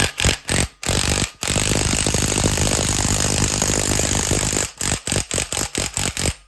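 Impact wrench with a 36 mm socket hammering on the flywheel gland nut of an air-cooled VW Beetle engine: short bursts on the trigger, then about three seconds of steady hammering, then more short bursts, stopping suddenly.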